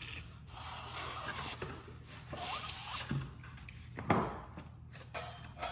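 A person chewing a bite of fried fish close to the microphone: irregular rubbing, rasping mouth noises, with one louder sudden sound about four seconds in.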